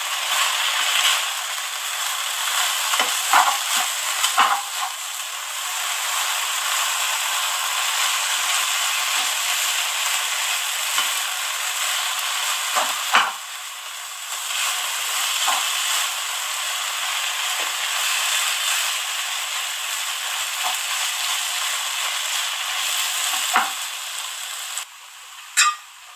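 Vermicelli sizzling steadily as it roasts in ghee in a nonstick wok, with a spatula scraping and knocking against the pan now and then as it is stirred. Near the end the sizzle falls away suddenly.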